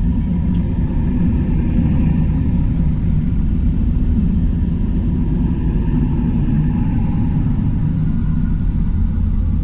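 Diesel farm tractors in a slow convoy, a steady low engine rumble with a faint wavering whine above it.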